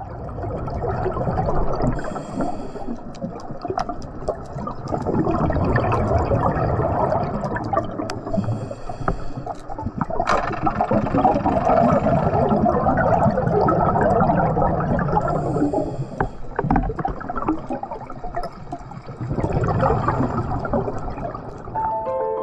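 Underwater sound of a scuba diver breathing through a regulator: exhaled bubbles rumble and gurgle past the camera, and a short hiss of inhalation comes every six or seven seconds.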